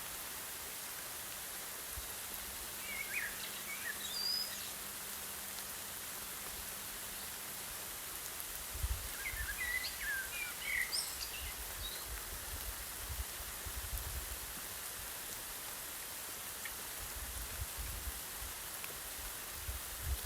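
Steady hiss of rain falling on grass. A bird chirps in two short bursts, a few seconds in and again around the middle, and a low uneven rumble comes and goes through the second half.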